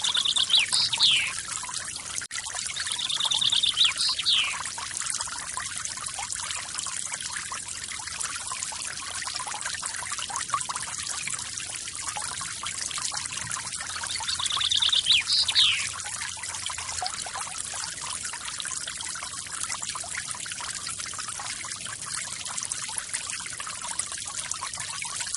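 Forest waterfall water splashing and trickling steadily, with a bird's short trilled call ending in a quick sweep, heard three times: about half a second in, around three seconds in, and around fifteen seconds in.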